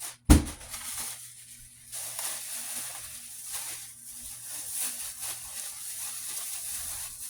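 A single thump as a pack is set down, then a plastic-wrapped pack of paper towels crinkling and rustling as it is handled.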